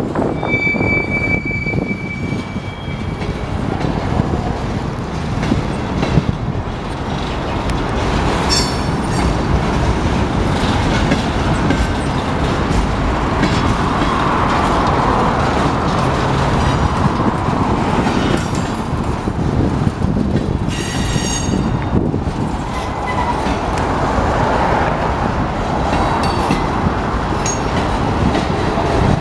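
Union Pacific freight cars rolling slowly past, a steady rumble and clatter of steel wheels on the rails. Brief high wheel squeals come and go: one about a second in, another around nine seconds in and another around twenty-one seconds in.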